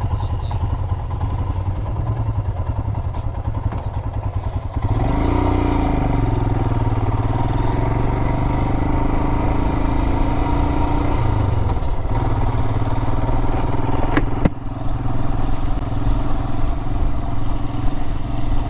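Adventure motorcycle engine running, then revving up and pulling away about five seconds in, its pitch rising and settling as it gathers speed, with a shift a few seconds later. A single sharp knock comes near the end.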